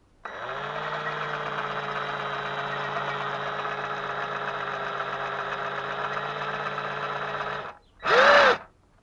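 An electric power tool motor spins up and runs steadily for about seven and a half seconds, then cuts off. About a second later it gives one short trigger burst that winds up and back down.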